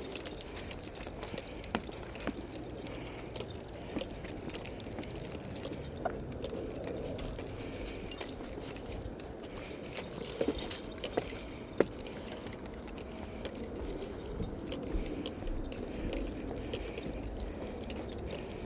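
Someone walking along a path: irregular footsteps with small clinks and jingling, as of keys or gear carried by the walker, over a faint low rumble.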